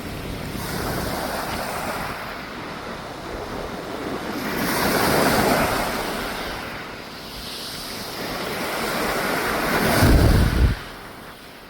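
Sea waves washing in and out, swelling about five seconds in and again near the end, with wind on the microphone. A heavy low wind buffet on the microphone about ten seconds in stops abruptly.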